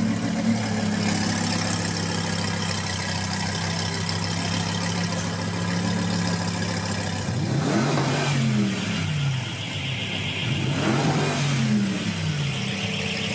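Lamborghini Huracán LP610's 5.2-litre V10 with an aftermarket Fi valved exhaust idling steadily, then blipped twice, revving up and falling back to idle about halfway through and again near the end.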